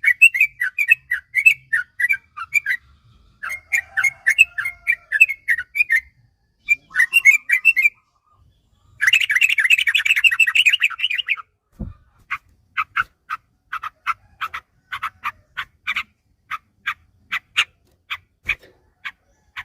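Yellow-vented bulbul (trucuk) song: bubbling phrases of quick notes, then a dense rapid rolling trill, the long 'ropel' run, about halfway. After a single low knock, clipped single notes follow at about two to three a second.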